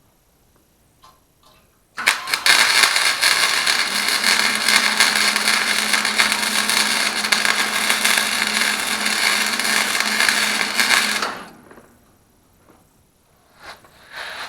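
Electric welder laying a weld bead on steel, a steady crackling hiss lasting about nine seconds, starting abruptly and cutting off.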